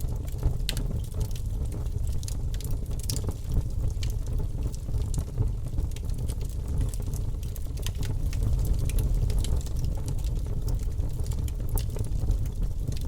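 Burning wood logs in a fireplace crackling, with irregular sharp pops scattered over a steady low rumble.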